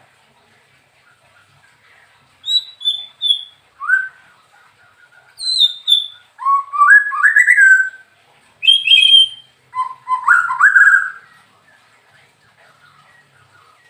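White-rumped shama (murai batu) singing loud, clear whistled phrases with short pauses between them. Some phrases are high notes stepping down, and others are quick runs of rising notes.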